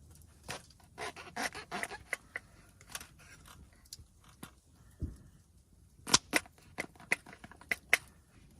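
Irregular sharp clicks, taps and scrapes of small objects being handled, with a dull thud about five seconds in and the loudest clicks near the end.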